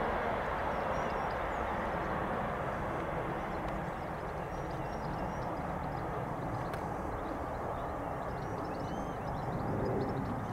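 Rumble of a train fading away after passing, with small birds chirping over it from a few seconds in.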